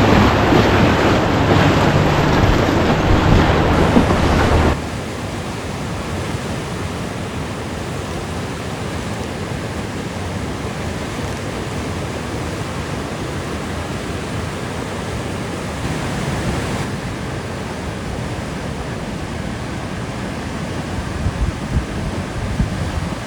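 Steady rush of fast-running river water through rapids at high flow. It is louder for the first few seconds, then drops abruptly to an even, lower rush.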